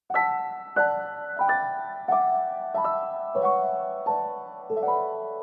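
Background music: a slow, gentle piano melody, a new note or chord about every two-thirds of a second, each ringing and fading.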